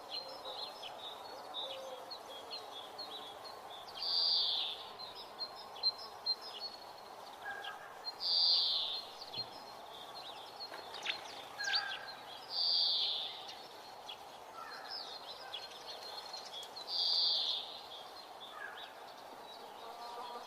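A bird call repeated about every four seconds, each call about a second long, with fainter chirps between, over a steady background hiss.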